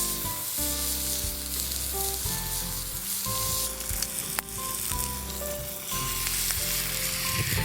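Food sizzling as it fries in a pan, a steady crackling hiss, with background music playing over it.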